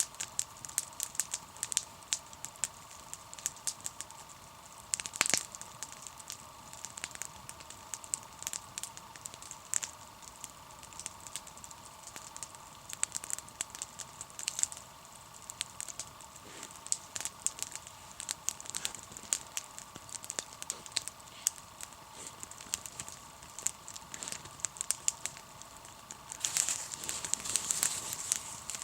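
Wood campfire crackling, with frequent irregular sharp pops and snaps that grow denser near the end.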